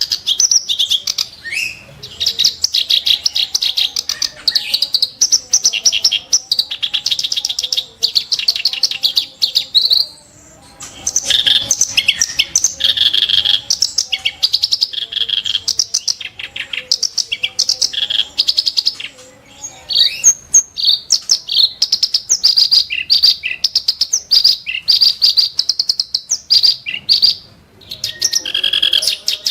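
Kerak basi (reed warbler) singing long phrases of rapid, harsh chattering notes, broken by short pauses about ten, nineteen and twenty-seven seconds in.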